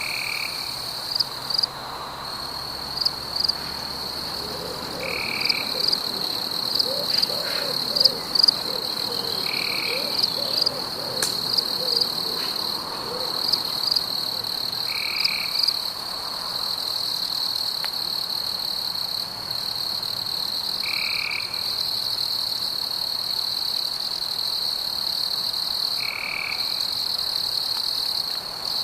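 Frogs calling over a steady high-pitched insect drone. A short call repeats about every five seconds, and a run of lower croaks comes in the first half.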